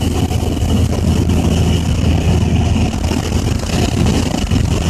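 Dump truck's Caterpillar C10 diesel engine running steadily with a load on, heard from inside the cab along with road noise.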